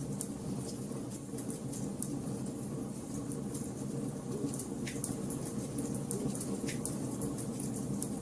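Wood fire burning in a fireplace: a steady low rumble of flames under frequent small crackles and pops from the burning logs, with a few louder snaps.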